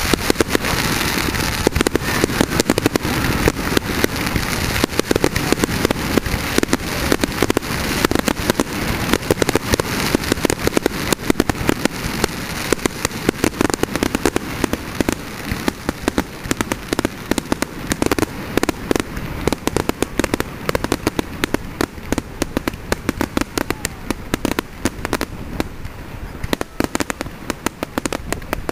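Fireworks display: a dense, continuous barrage of sharp bangs and crackles, many per second, easing off slightly near the end.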